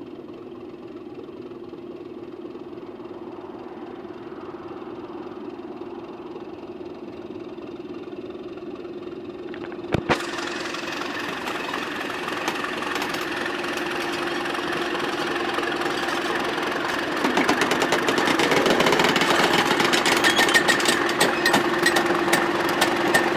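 Class 31 diesel-electric locomotive's English Electric V12 diesel engine running steadily. About ten seconds in there is a sharp clunk, then the engine and running noise grow steadily louder, with a dense rattle in the last few seconds.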